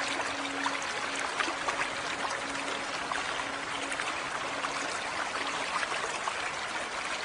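Running water of a stream or brook, a steady babbling rush full of small splashes, cut in and out abruptly.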